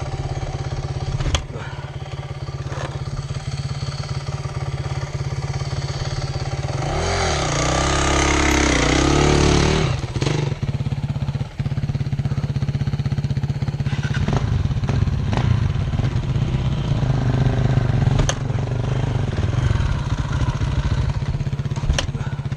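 Dirt bike engine running at low trail speed. About seven seconds in it revs up and down a few times before settling back about ten seconds in, with a few sharp knocks along the way.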